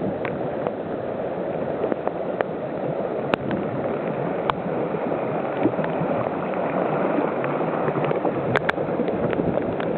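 Steady rush of runoff water flowing after heavy rain, with a few scattered sharp ticks.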